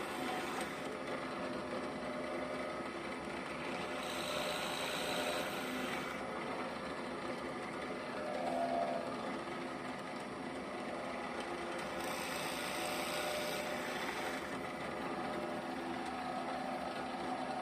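Restored 1968 NS12 bench drill press running steadily, its replacement motor driven by a frequency inverter, making a continuous hum of several steady tones. Twice, around four seconds in and again around twelve seconds in, the sound brightens for a couple of seconds. The machine still has some vibration that the owner means to eliminate.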